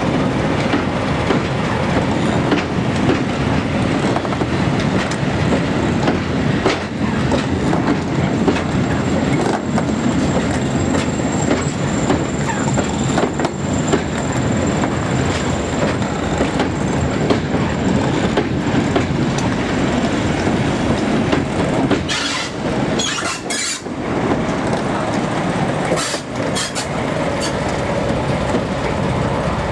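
Heritage railway shuttle train running along the line: a steady rumble with wheels clicking over rail joints. A thin high whine sounds through the middle, and the rumble thins and breaks up briefly a little after twenty seconds in.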